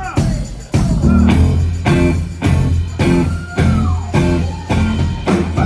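A live band playing rock music, with guitar and bass over a steady beat, and some notes bending in pitch.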